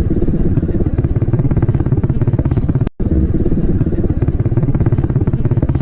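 Pit bike engine running steadily while the bike is ridden, the sound dropping out for a moment about three seconds in.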